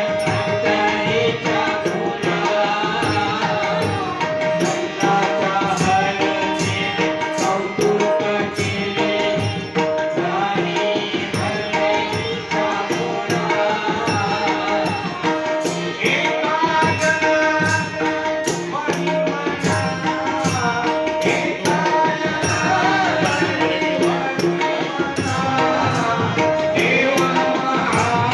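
Marathi devotional gaulan sung to tabla accompaniment, with sharp percussion strokes keeping an even beat under the melody.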